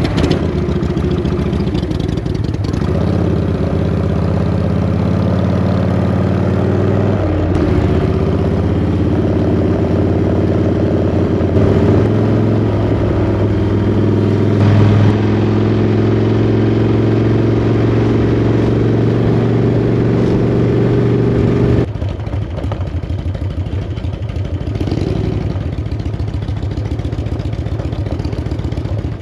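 Motorcycle engine running while riding, holding steady revs that change pitch in steps a few times. About 22 seconds in the steady engine note drops away, leaving a rougher rumble.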